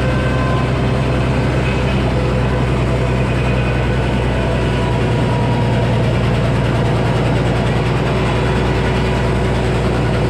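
Heavy engine, the sawmill's power unit, idling steadily with an even low drone and no change in speed.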